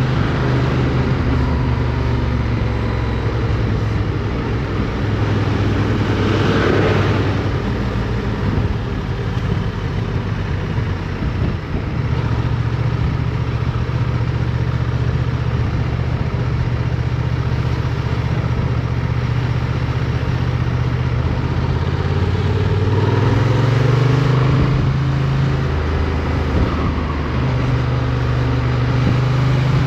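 Motorcycle engine running under way, heard from the bike itself, holding a steady note that rises in pitch as it accelerates about three quarters of the way through. A brief rush of noise swells and fades about a quarter of the way in.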